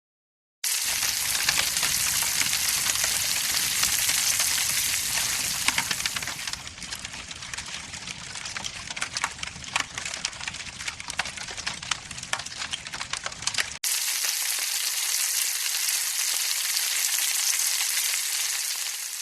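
Crackling campfire sound: a steady hiss dense with small pops and crackles. It drops quieter about six seconds in and jumps back up suddenly near fourteen seconds.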